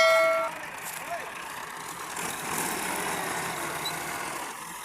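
A vehicle horn's steady blare cuts off about half a second in, followed by the even noise of running vehicles with voices in the background.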